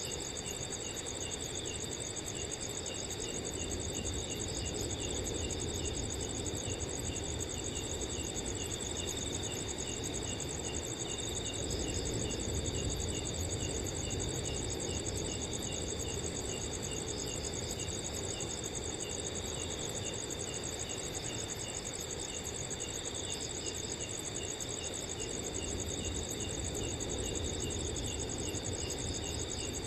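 Many crickets chirping in steady overlapping layers, one of them in quick, evenly repeated pulses, over a soft, steady rush of wind.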